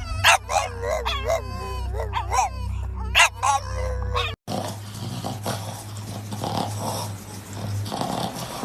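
A dog whining and yelping in short pitched calls that bend up and down. About four seconds in the sound cuts off abruptly, giving way to a noisy stretch with no clear calls.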